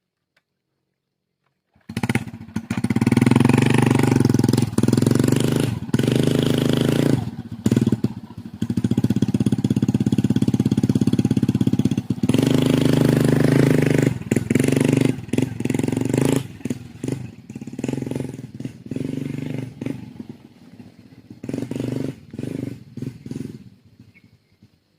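Motorcycle engine running steadily under way, starting abruptly about two seconds in and fading out just before the end.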